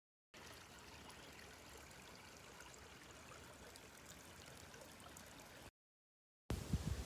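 Faint, steady outdoor background hiss with no distinct events, broken by short stretches of dead silence at the start and near the end. Just before the end, loud low thumps and rumbles come in.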